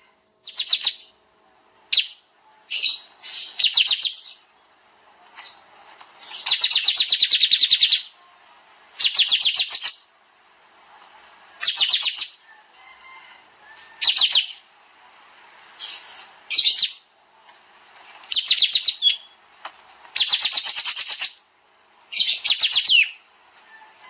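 Kapas tembak (pied triller) singing: a series of fast, dense trills of rapidly repeated high notes, each half a second to a second and a half long, coming every second or two.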